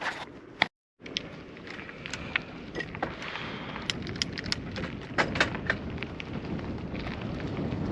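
Riding noise from a bicycle-mounted action camera: wind rushing over the microphone and tyres on the road, with sharp clicks and rattles from the bike. The sound cuts out completely for a moment about a second in, then the noise grows steadily louder toward the end.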